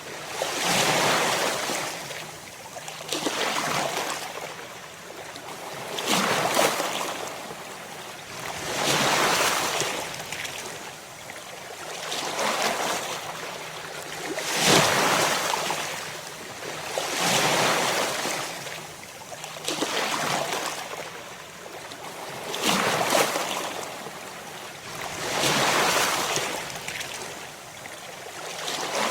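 Ocean waves crashing in steady succession, each swell of surf rising and washing back about every two to three seconds.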